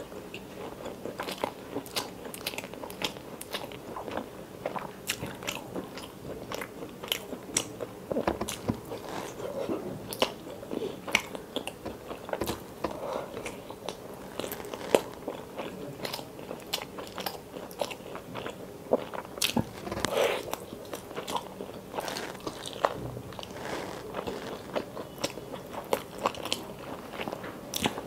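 Close-miked eating: biting and chewing curried chicken leg meat with rice, heard as many small sharp wet clicks and crunches at an irregular pace.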